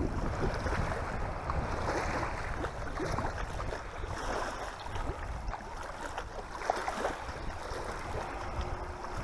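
Wind buffeting the microphone in gusts over lapping, splashing water.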